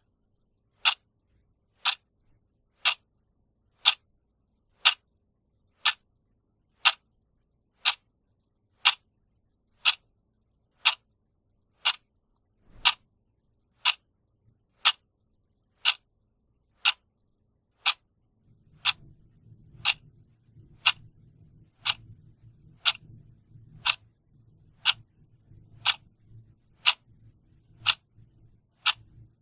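Clock ticking steadily, one sharp tick a second. A faint low hum comes in about two-thirds of the way through.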